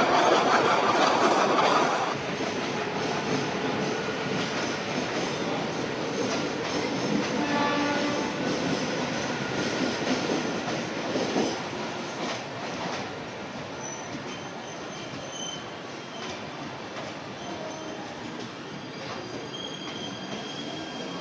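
Passenger train hauled by an ALCO diesel locomotive going by: loud for the first two seconds, then the rumble and clatter of the coaches on the rails, slowly fading.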